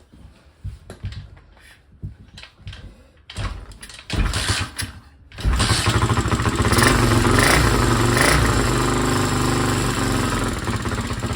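Old dirt bike's small four-stroke engine being kick-started on a little petrol poured in to prime it: a few knocks, a rough two-second attempt, then it catches about five seconds in and runs, blipped a couple of times before settling to a steady run.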